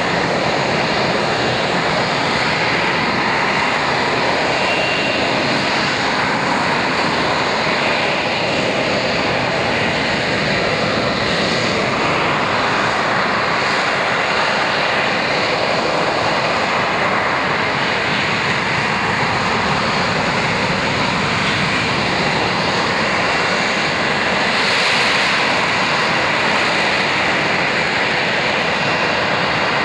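A Sea Harrier's Rolls-Royce Pegasus jet engine running loud and steady, with a faint high whine over it and a slight swell in level about 25 seconds in.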